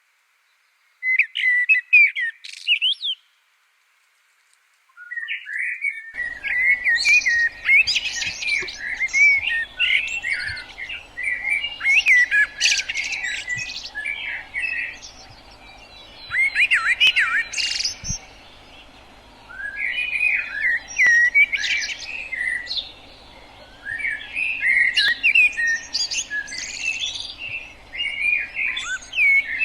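Common blackbird singing: a warbling, melodious song in separate phrases of two or three seconds with short pauses between them. A short phrase comes about a second in; after a silent gap of about two seconds the song resumes and carries on, over a faint steady background hiss.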